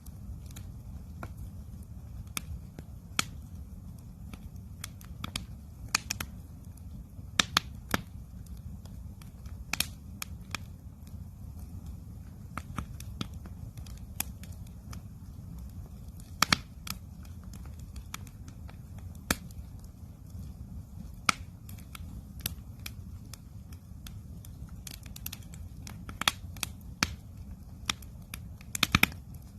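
Campfire crackling: irregular sharp pops and snaps, some in quick clusters, over a steady low rumble.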